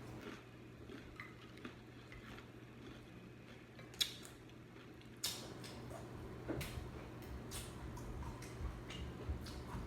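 Close-miked eating: a person chewing tortilla chips, with scattered crunches and light clicks, the sharpest about four seconds in and just after five seconds.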